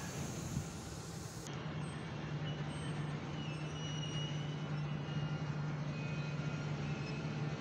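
Freight train hauled by an electric locomotive rolling slowly past, a steady low hum over even rolling noise from the wheels.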